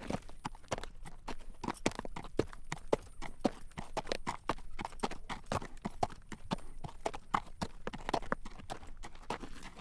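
Horse's hooves clip-clopping on a paved road at a walk as it draws a carriage: a steady run of sharp clacks, several a second.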